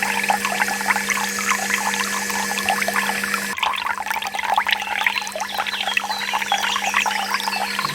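Water pouring and trickling in a small stream, with a steady low hum underneath; the sound jumps at an edit cut about halfway through.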